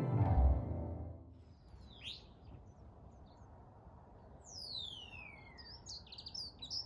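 A falling electronic sweep fades out in the first second. Then songbirds call: a chirp about two seconds in, a long high whistle falling in pitch around five seconds, and a quick run of chirps near the end.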